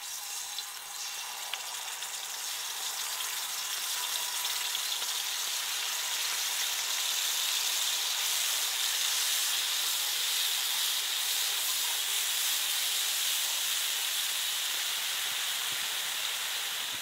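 Wet spice paste (masala) sizzling as it fries in hot oil in a wide pan, a steady hiss that builds over the first few seconds as more paste goes in and is spread, then holds.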